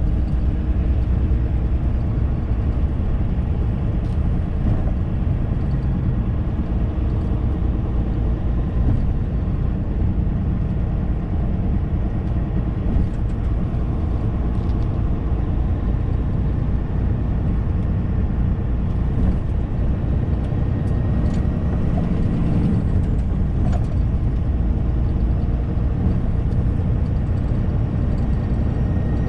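Semi-truck's diesel engine and road noise heard from inside the cab while driving, a steady low drone with a few light clicks and rattles.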